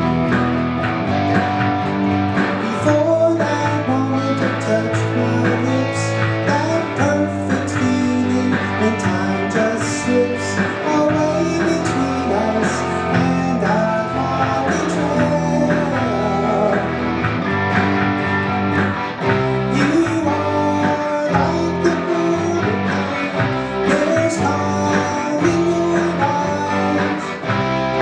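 A rock band playing, with guitar prominent over a steady bass line.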